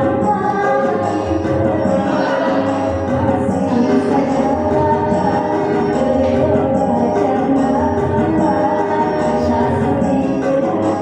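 A young woman singing a pop song over a continuous instrumental backing with light jingling percussion.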